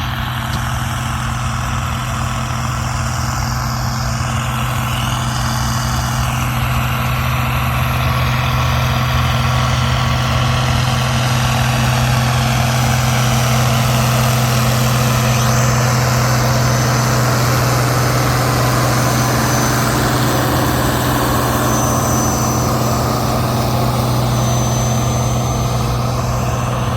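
An engine running steadily at a constant speed, a loud, even low hum with no change in pitch.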